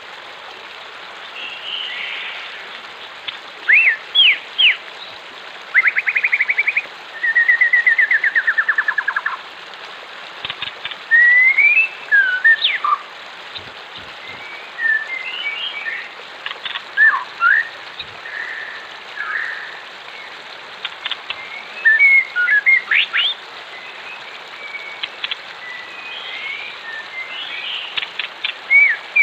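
Wild birds calling: a string of chirps and whistled notes from several birds, with a rapid trill a few seconds in. A steady rush of flowing water sits underneath.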